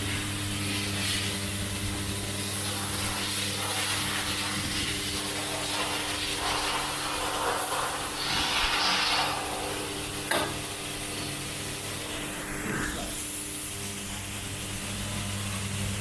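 Automatic centrifugal fan impeller assembly machine running with a steady hum. Hissing swells come and go, the loudest about halfway through, and a sharp click sounds about ten seconds in and another a couple of seconds later.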